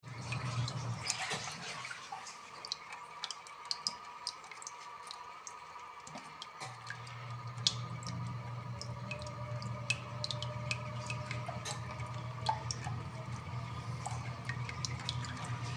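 Household hydrophore water pump with water dripping and splashing in many short, irregular drops. A low motor hum fades about two seconds in and starts again about six and a half seconds in.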